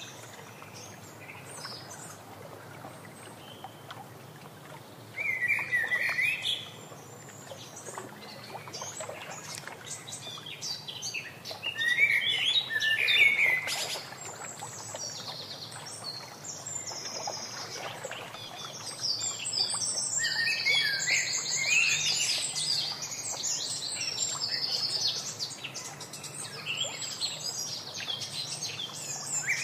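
Birds calling in several bursts of chirps, with a longer run of high-pitched chattering in the second half.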